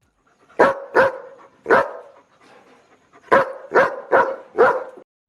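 A dog barking: three barks, a pause, then four more in quick succession.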